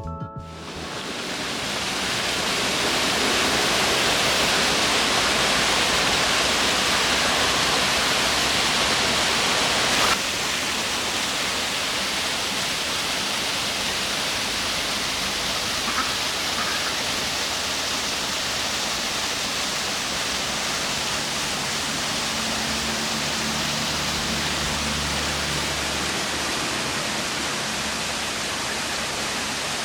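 Tarsus Waterfall pouring: a steady rush of falling water that swells in over the first couple of seconds and drops slightly in level about ten seconds in.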